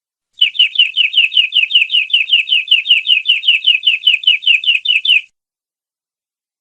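Canary singing one rapid trill: a single quick falling note repeated about five or six times a second for nearly five seconds, then stopping abruptly.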